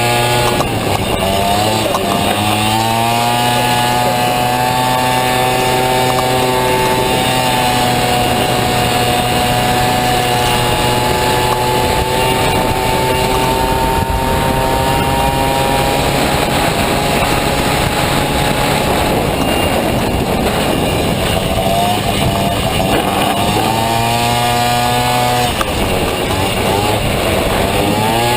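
Honda Motocompo's swapped-in Honda Dio 50cc two-stroke scooter engine running hard at high revs. The revs drop and climb again near the start and again about 24 seconds in.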